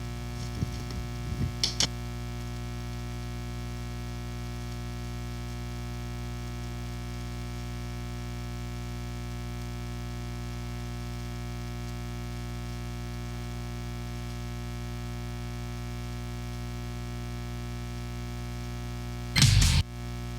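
Steady electrical mains hum: a low, unchanging tone with a ladder of overtones. There are a few faint clicks in the first two seconds, and a short, loud crackle comes just before the end.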